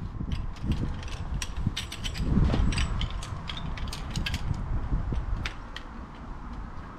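Irregular sharp clicks and light knocks of objects being handled, over a low rumble.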